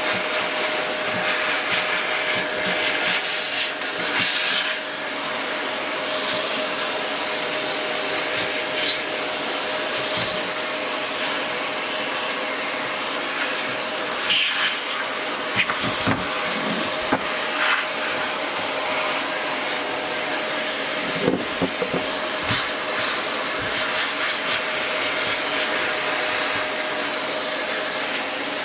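Electric dust-cleaning tool running steadily, its motor giving a constant whine over a rush of air, as dust is cleaned off amplifier parts; a few brief knocks in the second half.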